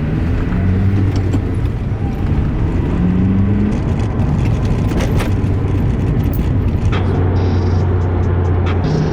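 Car driving: steady engine drone under road noise, with the engine pitch rising briefly about three seconds in.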